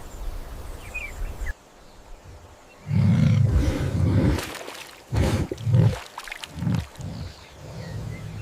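A large wild animal roaring: one long, loud, low roar about three seconds in, followed by three shorter roars.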